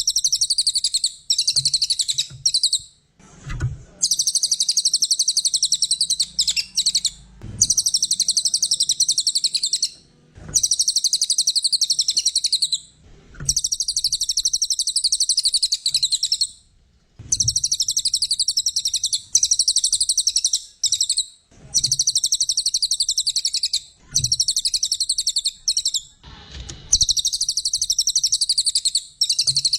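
Brown cililin songbird singing high, rapid chattering trills in phrases of about two seconds, repeated with short pauses between them.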